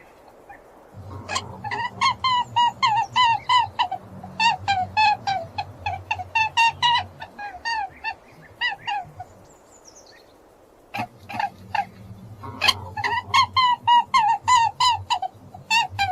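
Farm fowl giving rapid runs of short honking calls, about four a second, in two bouts with a pause of about two seconds between them.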